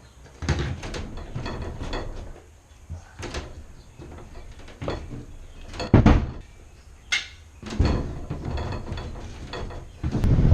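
A series of irregular knocks and clunks with some low thuds, the loudest about six seconds in, with rustling handling noise between them.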